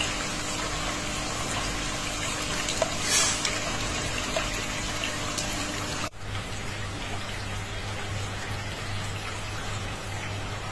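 Steady rushing water, like a small stream or running water. About six seconds in it cuts off abruptly and picks up again at once.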